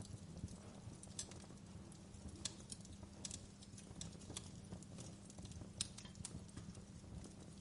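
Fireplace fire crackling: quiet, irregular pops and snaps over a soft steady low rumble.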